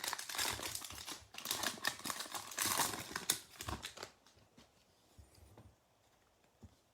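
Foil wrapper of a 2021 Donruss football card pack being torn open and crinkled. It goes on for about four seconds, then fades to faint rustles.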